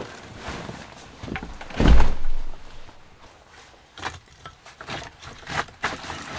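A heavy low thump about two seconds in, followed by scattered light knocks and rustles.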